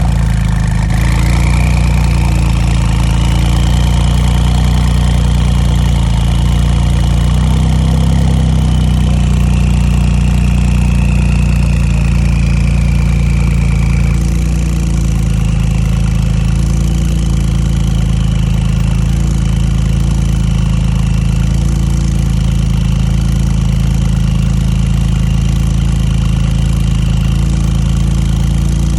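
Porsche 991 GT2 RS twin-turbo flat-six running at a steady fast idle just after a cold start. A high whine rises over the first couple of seconds and fades out about halfway through, and the idle then settles a little quieter.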